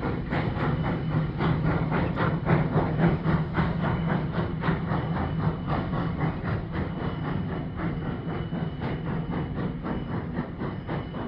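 Virginia & Truckee No. 29, a 1916 Baldwin 2-8-0 steam locomotive, chuffing as it works up a grade, with rapid, even exhaust beats over a low rumble. The beats ease off slightly toward the end.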